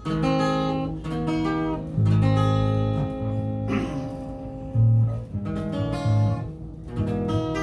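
Acoustic guitar strumming chords. It starts abruptly and changes chord about every second.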